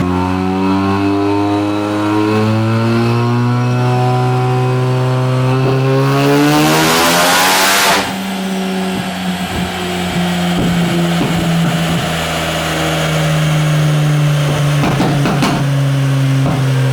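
Turbocharged 13B rotary engine of a Mazda RX-7 FC making a full-throttle dyno pull, its pitch climbing steadily for about eight seconds with a loud rushing hiss near the top. The throttle then shuts and the engine drops back to a lower steady note, with a few sharp pops and crackles.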